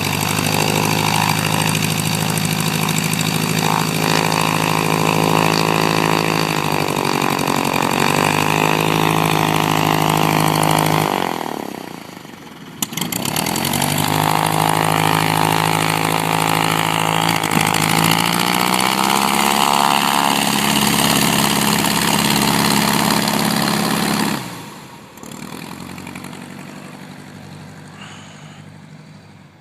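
A 1967 Cessna 150's four-cylinder Continental O-200 engine running, its pitch rising and falling with throttle changes. It drops away about eleven seconds in, comes back sharply about two seconds later, and near the end falls away to a quieter, fading sound.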